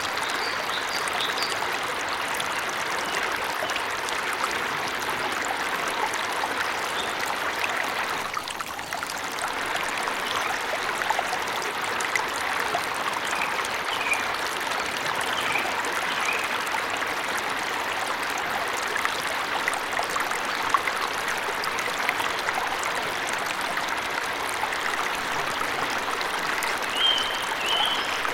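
Steady rush of water from a forest waterfall, with a few short bird chirps now and then over it, a small cluster of them near the end.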